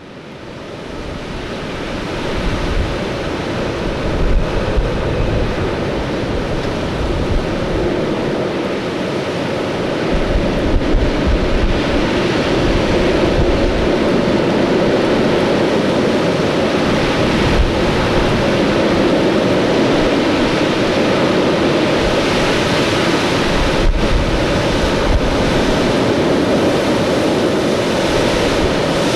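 Storm wind blowing hard and steadily, fading in over the first couple of seconds, with gusts buffeting the microphone in irregular low rumbles.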